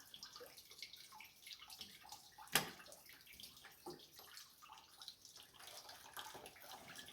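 Faint trickle of coolant draining from the Oliver 70 tractor's radiator, with scattered small ticks and one sharp click about two and a half seconds in.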